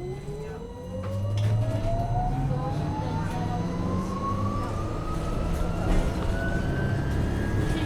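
Interior sound of a 2015 MAN Lion's City NL253 Hybrid city bus accelerating: the electric drive's whine rises steadily in pitch, over a low drivetrain rumble that grows louder about a second in.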